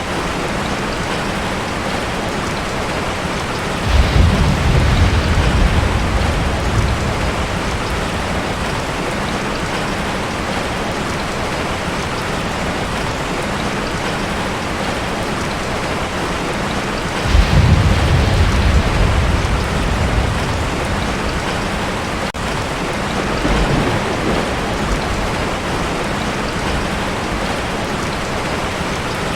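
Heavy rain beating steadily on a tin roof, with thunder rumbling in twice, sudden and low about four seconds in and again about seventeen seconds in, each dying away over a few seconds, and a weaker rumble a few seconds after the second.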